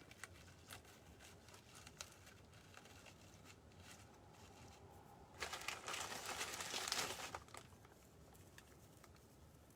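Crinkling and rustling as a dry craft material is handled and pressed into place by hand. It is loudest for about two seconds in the middle, with light scattered ticks around it.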